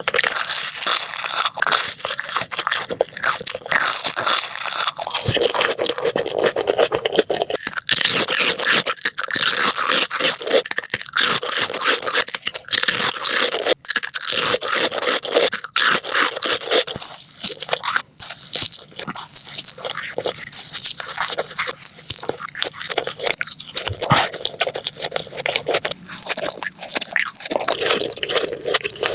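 Close-miked ASMR eating sounds: crunchy food being bitten and chewed, a dense, continuous run of crunching and crackling.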